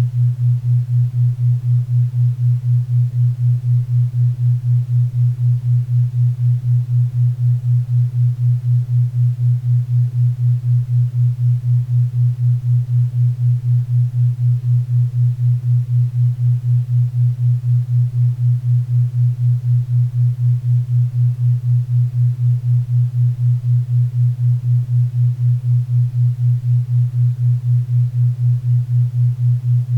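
Low 4 Hz theta-wave entrainment tone: a steady hum pulsing evenly about four times a second. A faint bed of pink and brown noise hisses underneath.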